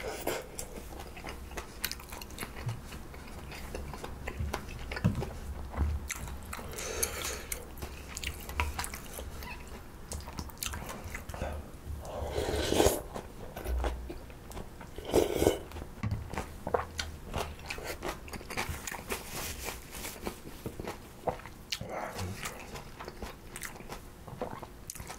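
A person chewing and biting mulhoe, Korean cold raw-fish soup in slushy iced broth, close to the microphone: a steady run of crunching and chewing clicks, with two louder bursts a little past the middle.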